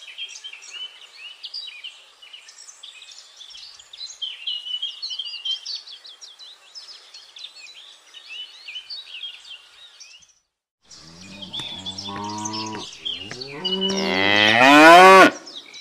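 Small birds chirping busily, a string of short high chirps. Then, after a brief silence, a cow moos twice: a low moo, then a louder one rising in pitch that cuts off suddenly.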